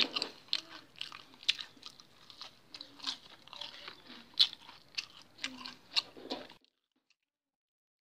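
Close-up chewing and crunching of crispy fried chicken katsu, with irregular crisp crunches and wet mouth noises. It cuts off abruptly near the end.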